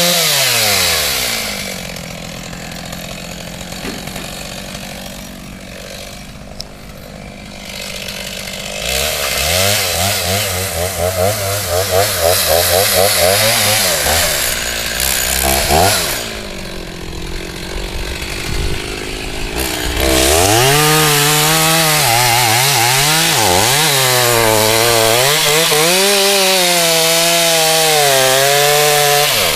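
Chainsaw cutting into a tree trunk. It drops from full throttle to idle in the first couple of seconds and idles for several seconds, then revs into the cut again. From about two-thirds of the way through it runs at full throttle, its pitch sagging and recovering under the load of the cut.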